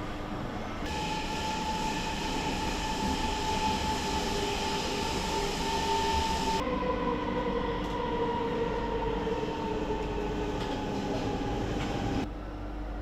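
Rome Metro Line A train running, with the electric traction drive's whine over rumble. After an abrupt cut about halfway, the whine slowly falls in pitch as the train slows, and the sound drops sharply near the end.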